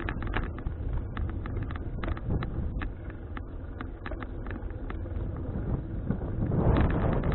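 Wind buffeting an action camera's microphone while riding a folding bicycle, with frequent irregular clicks and rattles from the moving bike. The wind noise grows louder near the end.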